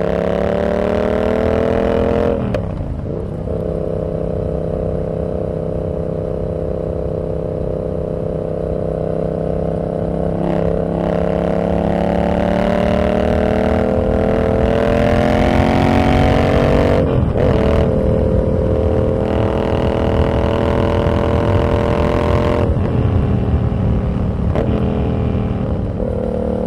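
Yamaha XSR700's parallel-twin engine through a Kelpi full shorty exhaust with the standard baffle, heard while riding. The note dips and recovers near 3 s, climbs slowly in pitch through the middle, breaks briefly near 17 s, then runs steady again.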